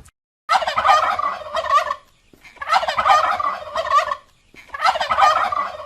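Turkey gobbling: three rapid, warbling gobbles of about a second and a half each, with short pauses between them.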